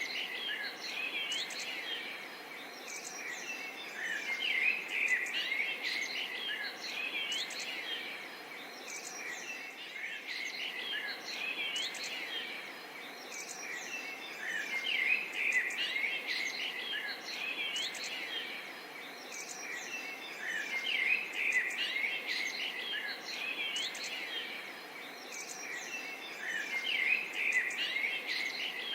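Birds chirping and calling in a dense chorus of short, quick rising and falling chirps over a steady background hiss. The chorus swells and fades several times.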